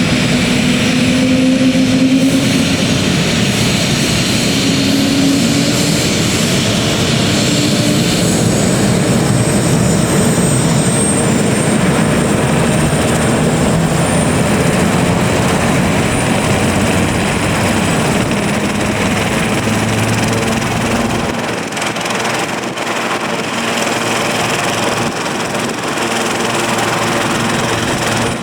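Helicopter's turbine engine and rotor running close by: a loud, steady noise with a high whine that slowly falls in pitch. The deepest part of the sound drops away about three-quarters of the way through.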